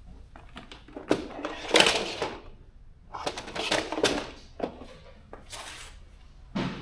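Small steel bolts clinking and rattling as handfuls are picked up and dropped into a kit's compartments, in several separate bursts.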